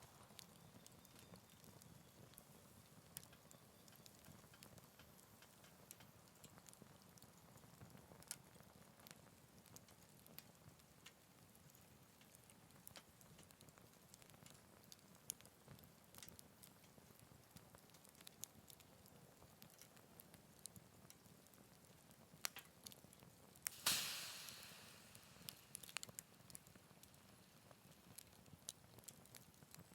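Small wood fire in a Picogrill 398 folding fire pit crackling: scattered quiet pops and snaps over a low hiss. One louder crack about 24 seconds in is followed by a short hiss.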